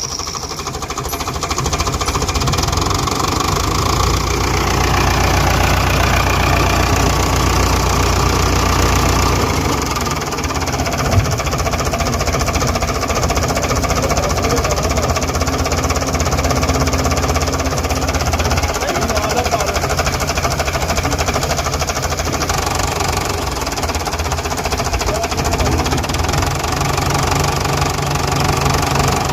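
Fordson Super Major tractor's four-cylinder diesel engine running, its level building over the first few seconds and dipping briefly about ten seconds in; a single sharp knock sounds about eleven seconds in.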